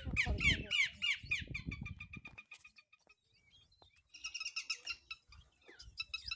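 Campeor songbird singing in rapid bursts. First comes a fast run of sharp, downward-sweeping chirps lasting about two and a half seconds. After a short pause, a quick series of clipped, evenly repeated notes begins about four seconds in.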